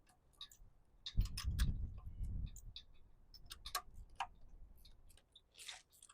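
Irregular clicks and clinks of hand tools as spark plugs are unscrewed from a Yamaha F150 outboard engine, with a dull low rumble of handling about a second in.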